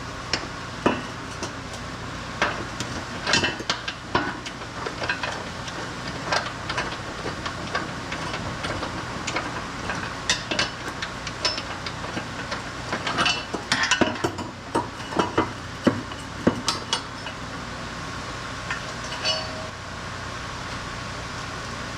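Irregular metallic clinks and knocks of hand tools and car parts being handled during suspension work, busiest in the middle and dying away near the end, over a steady workshop hum.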